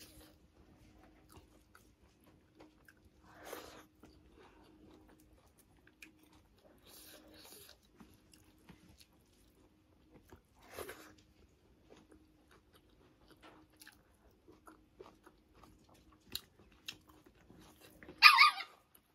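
Close-up eating sounds: a person chewing soft food such as rice and boiled leafy greens eaten by hand, with small mouth clicks and a few short wet chewing bursts over a faint steady hum. Near the end, a brief loud burst of background noise.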